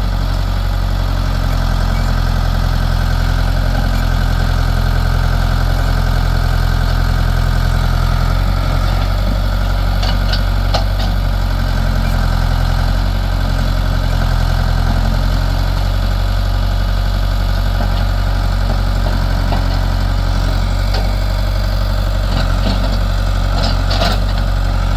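Old backhoe's engine running steadily while it digs, with a few faint knocks about ten seconds in and again near the end.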